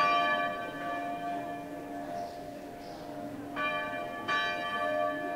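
Bell struck three times. The loudest strike comes right at the start, then two more follow close together near the end, each ringing on and slowly fading over a steady low hum.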